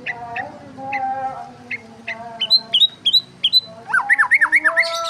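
Songbirds chirping and calling: short sharp chirps at irregular intervals, then quick down-slurred whistles, and a fast run of about eight notes a second near the end.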